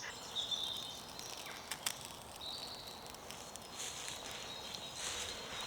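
Quiet woodland ambience with faint high bird calls and a few light clicks.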